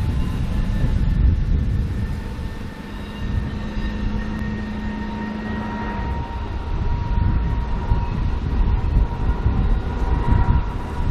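Sugar cane train with a diesel-hydraulic locomotive running on narrow-gauge track: a heavy low rumble and a steady low hum that stops about six seconds in, with a thin high whine over it.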